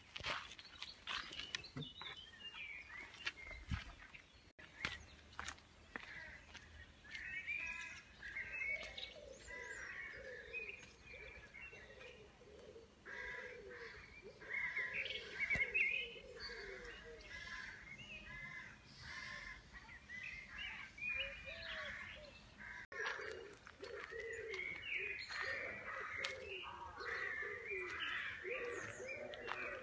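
Wild birds chirping and singing, many short calls overlapping, with a lower repeated call running under them for much of the time.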